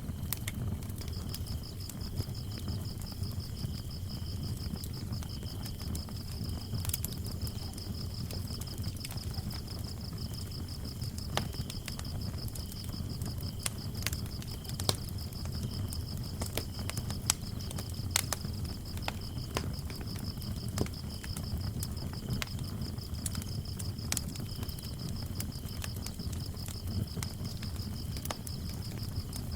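Wood fire crackling, with sharp pops scattered over a low steady rumble. Crickets chirp alongside: a high, fast, continuous trill that starts about a second in, and a lower chirp in short repeated pulses.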